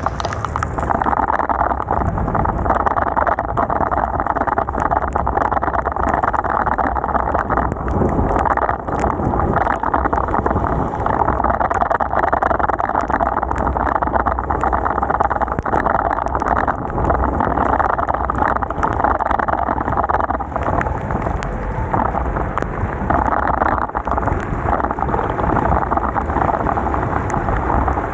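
Heavy rain: a dense, steady patter of raindrops with many small ticks, over a low rush.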